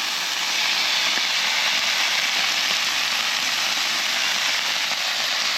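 Hash browns with bacon, peppers and onions sizzling steadily on a hot Blackstone flat-top griddle, a constant even hiss.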